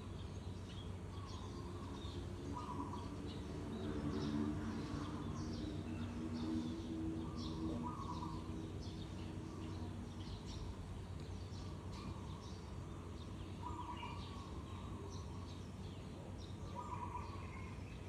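Birds chirping and calling, short high chirps scattered throughout with a lower call repeating every few seconds, over a steady low hum.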